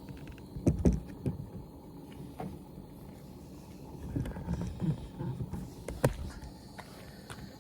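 Cooking gear being handled on a camp stove: several dull knocks and clatters about a second in and again around four to five seconds, with one sharp click about six seconds in.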